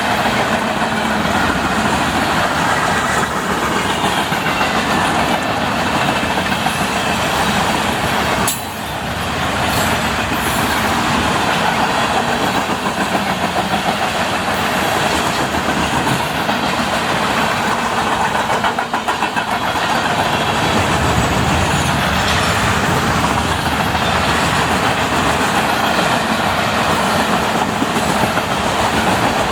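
Freight cars of a long CSX manifest train rolling past at track speed, with a steady rumble and the clickety-clack of wheels over the rail joints.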